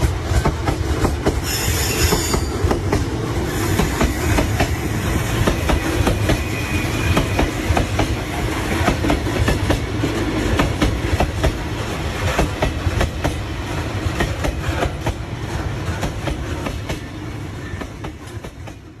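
Train running along the track, wheels clattering in a steady stream of clicks over the rail joints, with a short high-pitched sound about two seconds in. The sound fades away over the last few seconds.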